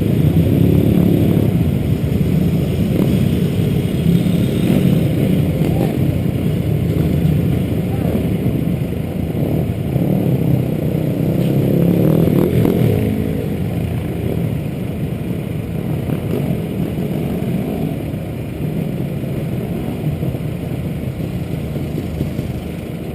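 Pit bike engines running, the sound growing fainter over the second half.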